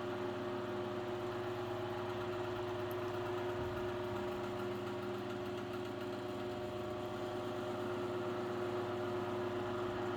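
Chicago Electric Handybreeze Model 314 table fan running steadily on high speed, a constant motor hum with slight vibration sounds.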